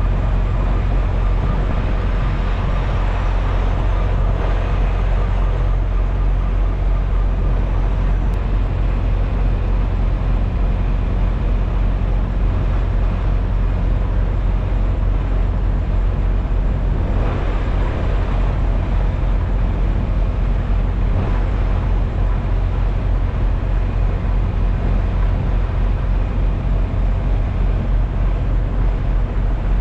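Semi truck's diesel engine running steadily under road noise, an even low drone that doesn't rise or fall.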